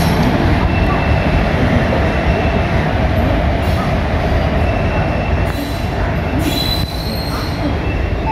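Train rolling past behind a WAG-7 electric locomotive: a steady low rumble of wheels on rail, with thin wheel squeals coming and going.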